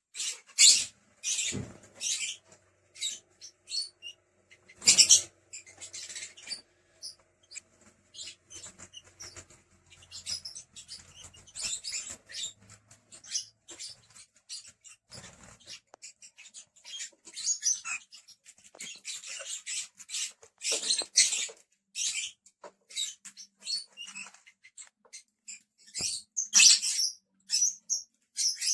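Several lovebirds chattering: a near-continuous, irregular stream of short, high chirps and squeaks, with a few low thumps in between.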